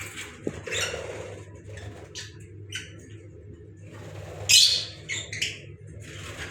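Lovebirds giving short, scattered chirps and squawks, the loudest call about four and a half seconds in followed by a quick few more, over a faint steady low hum.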